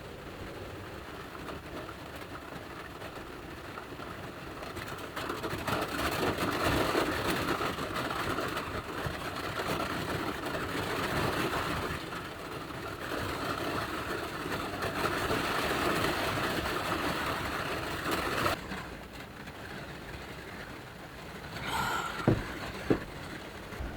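Heavy rain drumming on the roof of a Subaru Sambar kei van, swelling in waves and then dropping off suddenly; two sharp knocks near the end.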